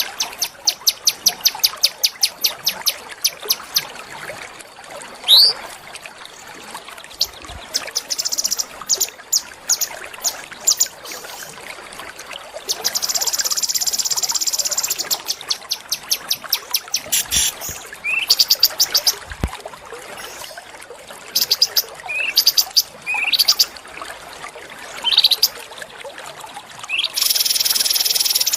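Small songbirds calling: fast runs of sharp high chips, several short rising whistles, and two buzzing trills of about two seconds each, one near the middle and one near the end.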